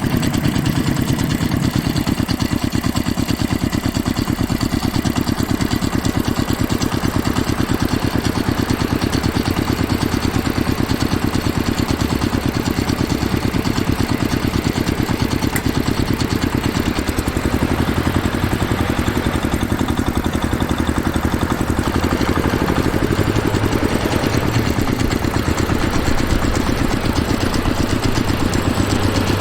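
Engine idling steadily, with an even, repeating pulse.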